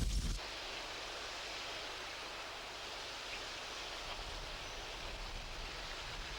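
Steady rushing of flowing river water. A louder sound in the first half-second cuts off suddenly before it.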